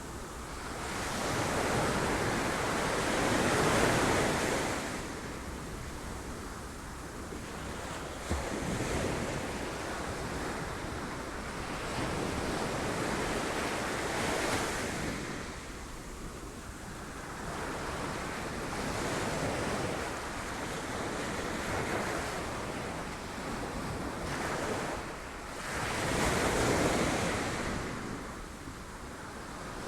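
Sea waves breaking on rocks, the surf swelling and falling away in repeated surges every few seconds, with wind on the microphone.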